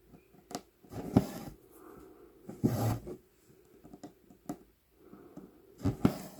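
Cross-stitching on 11-count Aida cloth: a size 24 needle pokes through the fabric with a sharp click, and the embroidery floss is drawn through with a swish, repeating every second or two.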